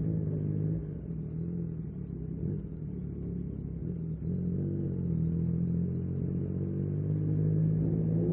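Yamaha MT-09 SP's three-cylinder engine running at low, fairly steady revs, easing off slightly about a second in and picking up again around five seconds in.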